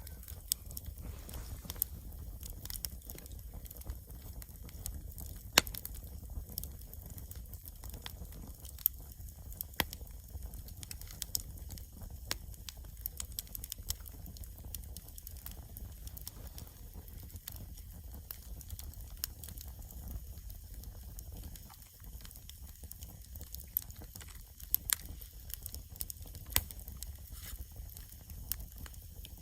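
Wood bonfire crackling, with sharp pops and snaps at irregular intervals, one louder pop about five seconds in, over a steady low rumble.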